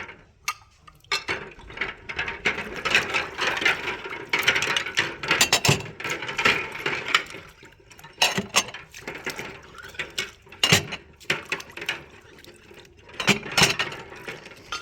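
Dishes and utensils being handled: irregular clinks, clatters and knocks, with stretches of rustling noise between them.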